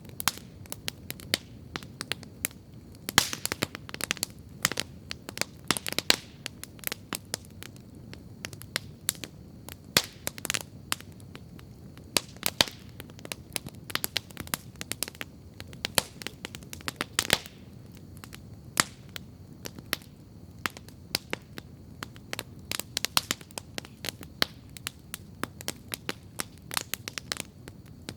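Wood campfire crackling steadily, with frequent irregular sharp pops and snaps over a low, soft rush.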